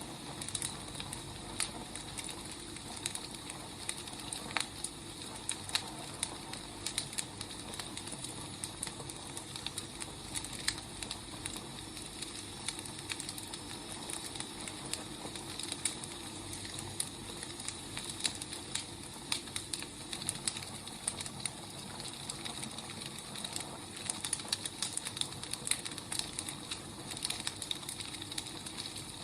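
Wood fire burning: a steady hiss with frequent sharp crackles and pops from the burning logs.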